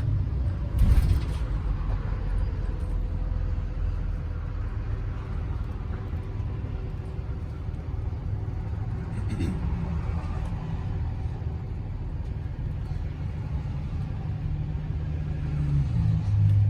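A bus engine running with a steady low rumble, heard from inside the bus. There are short bursts of noise about a second in and again around nine seconds in. Near the end the engine note strengthens as the bus picks up.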